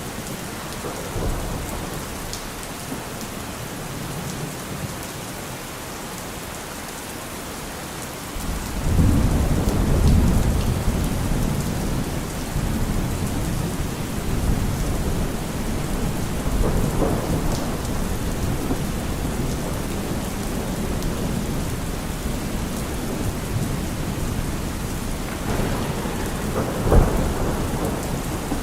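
Steady heavy rain with rolling thunder. About eight and a half seconds in, a loud rumble builds suddenly and rolls on for several seconds. Lighter rumbles follow, and a sharper thunderclap comes near the end.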